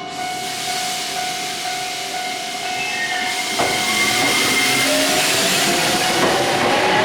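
A Japanese level-crossing bell keeps ringing its steady 'kan-kan' as a Nankai Koya Line train rushes past close by. The loud hiss of the passing train starts suddenly and grows louder. In the second half, thin whining tones rise in pitch.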